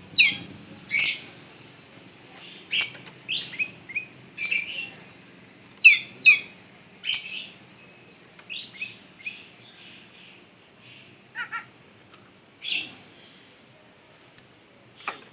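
A pet bird chirping: short, sharp, high calls that mostly fall in pitch, about a dozen at irregular intervals, growing sparser and quieter in the second half.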